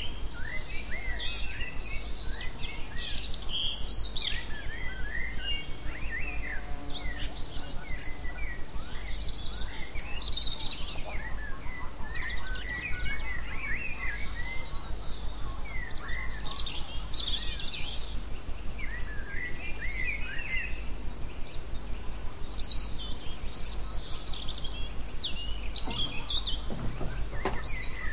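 Songbirds chirping and singing, many short overlapping calls and trills, over a steady low hum.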